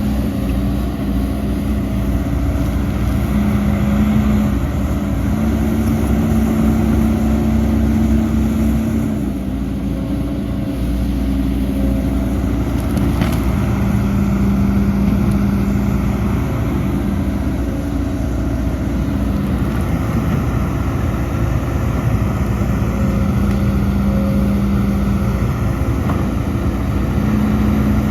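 Heavy diesel earthmoving machinery running, a deep steady engine hum whose note swells and eases several times as the load changes.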